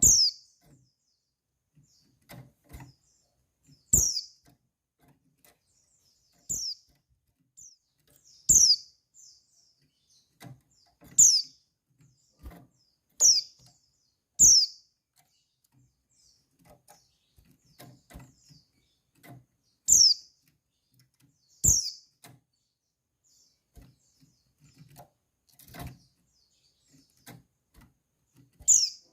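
Female white-eye (pleci) giving its call: short, sharp chirps that fall quickly in pitch, about a dozen at irregular intervals, with a longer gap in the middle and another near the end. Light knocks and rustles can be heard between the calls.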